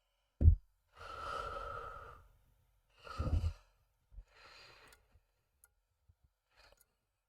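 A man's long sigh, then a second shorter breath out, following a low thump about half a second in; a faint click near the end.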